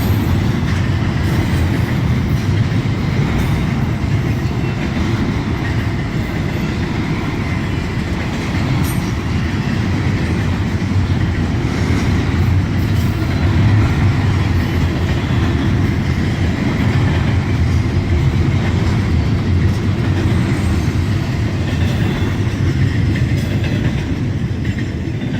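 CSX intermodal freight train rolling past, a steady loud rumble of steel wheels on the rails with faint clickety-clack.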